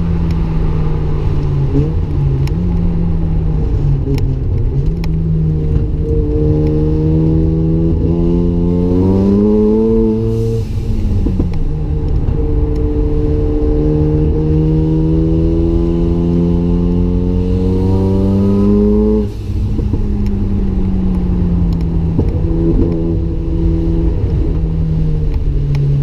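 Single-turbo Mazda RX-7's rotary engine under hard acceleration, its pitch climbing steadily through two long pulls. It drops sharply as the driver lifts about ten seconds in, with a short hiss, and again about nineteen seconds in, then runs at a steadier, lower pitch.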